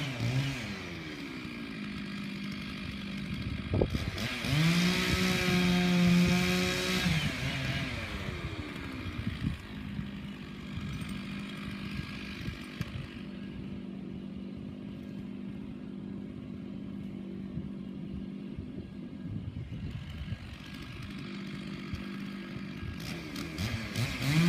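Two-stroke chainsaw dropping back off full throttle, revved up again about four seconds in for a few seconds, then running quietly at low speed until it is throttled up again at the end.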